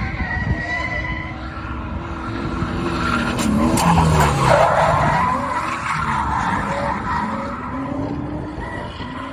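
LS-swapped Nissan 240SX drifting, its 5.3-litre iron-block V8 revving up and down over tyre squeal. There is a louder stretch of skidding about halfway through.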